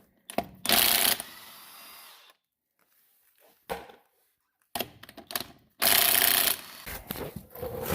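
Mac cordless impact wrench with a 21 mm socket, firing in two short bursts, about a second in and again about six seconds in, as it spins lug nuts off a truck wheel. Light clatter of parts follows near the end.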